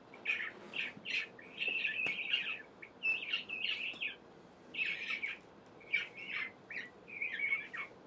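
A bird giving quick runs of short, high calls in bursts, with a brief pause about four seconds in.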